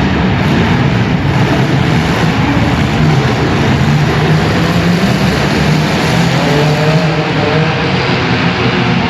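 Several compact cars' engines running hard at high revs, over a dense wash of noise. One engine's pitch rises and falls as it revs, about two-thirds of the way in.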